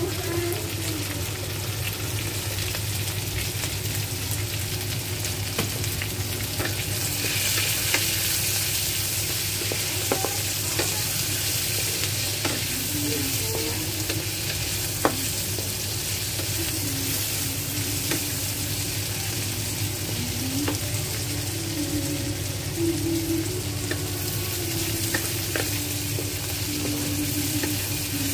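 Chopped chilies sizzling in hot oil in a metal wok, stirred with a wooden spatula that scrapes and knocks against the pan now and then. The sizzle grows louder from about seven seconds in and eases off again near the end.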